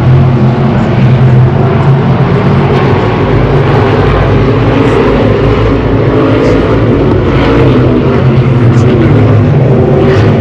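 Race car engines running loudly, their pitch shifting up and down over a steady background of engine noise.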